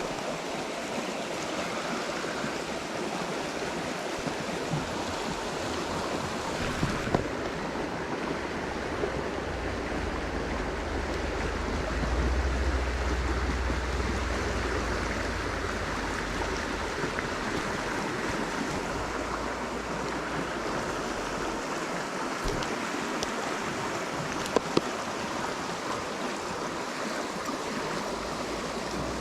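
Creek water rushing steadily, with a low rumble for several seconds in the middle and two sharp clicks near the end.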